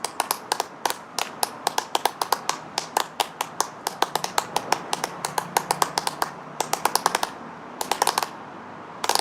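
Rapid, irregular sharp clicks and taps, several a second, thinning out with short gaps near the end.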